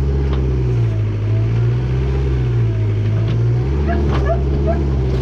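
Mini backhoe engine running steadily while digging. Its pitch drops for a couple of seconds, starting about a second in, then comes back up.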